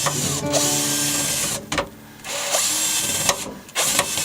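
Power drill driving screws into a VW bus firewall panel in short runs, stopping briefly twice, over background music.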